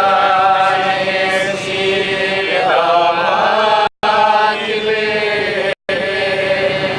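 A voice chanting a slow melody in long, held notes that glide between pitches. The sound cuts out completely for an instant twice, near the middle and a little later.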